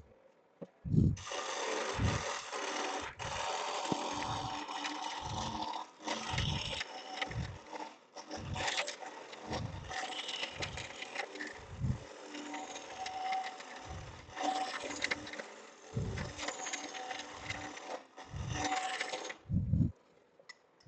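Lathe turning tool cutting into a spinning log blank, a steady rough shearing of wood as the out-of-round blank is trued up, in long passes with a few brief pauses. It starts about a second in and stops shortly before the end. Low thumps recur about once a second underneath.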